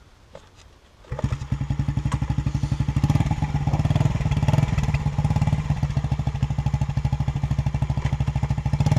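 Small single-cylinder pit bike engine starting up about a second in, then running steadily with a rapid, even putter that grows a little louder a couple of seconds later.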